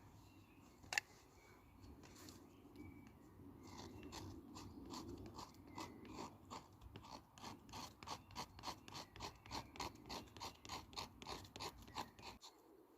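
Rhythmic scraping strokes, about three or four a second, growing louder from about four seconds in and stopping near the end, after a single sharp click about a second in.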